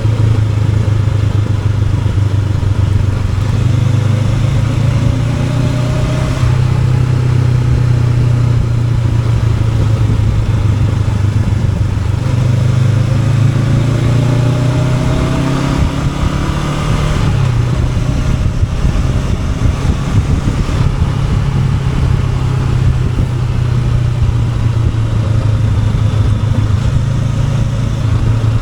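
Honda NX500 parallel-twin engine running under way, its pitch rising as it accelerates about four to six seconds in and again from about twelve to sixteen seconds, then dropping sharply about seventeen seconds in.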